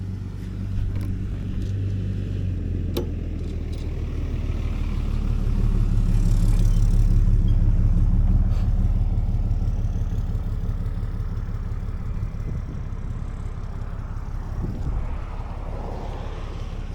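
Small single-cylinder minibike engine running under way, with wind on the microphone. It grows louder around the middle, then eases back.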